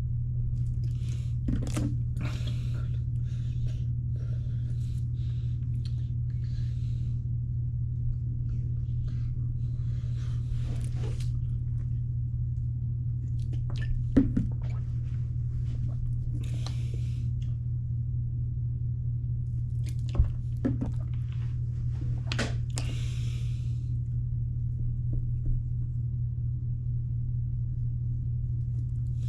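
Steady low hum, broken by a few sharp knocks and several short breathy hisses.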